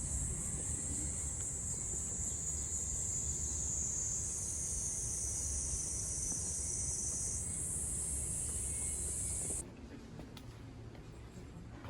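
Insects buzzing in a loud, steady high drone, over a low rumble of wind on the microphone. Both cut off abruptly about ten seconds in.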